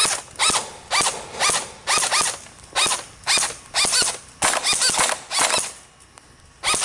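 A short pitched animal call repeated about twice a second, often in quick pairs, with a pause of about a second near the end.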